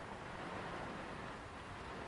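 Ocean waves washing on a beach, heard as a steady, even hiss of surf with no single wave standing out.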